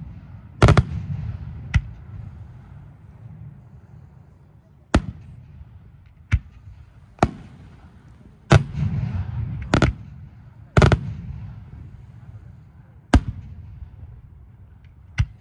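Aerial firework shells bursting in a display: about ten sharp bangs a second or two apart, with a lull between about two and five seconds in. The bigger bursts are followed by a low rolling echo.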